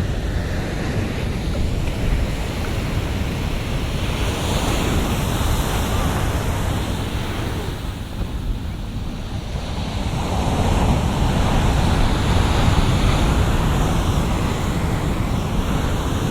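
Ocean surf breaking and washing up the shore, a steady wash that dips about eight seconds in and then swells louder as another wave breaks, with wind rumbling on the microphone.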